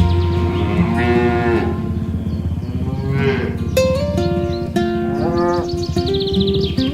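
Cattle mooing, three long calls that rise and fall in pitch, over background music with held notes.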